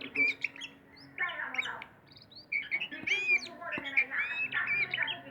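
Oriental magpie-robin (kacer) singing a run of varied whistled and chattering notes, with a short pause about two seconds in before the song picks up again.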